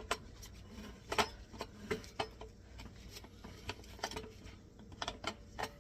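Irregular light clicks and taps of garbage disposal mounting parts being handled and pressed into place, metal and hard plastic knocking together.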